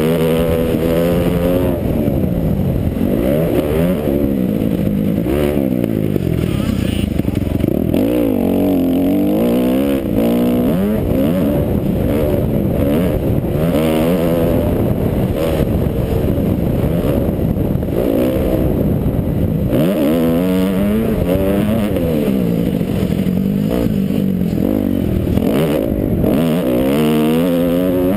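Kawasaki KX250F four-stroke single-cylinder motocross bike engine, revved hard and then let off over and over, its pitch climbing and falling every few seconds as the throttle is opened and closed while racing.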